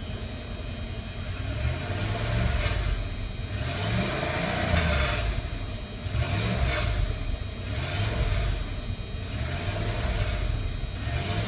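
1996 Dodge Ram's 5.9 litre (360) Magnum V8 gasoline engine revved up and let back down about five times, roughly every two seconds. Apart from a little exhaust rattle, it runs fine.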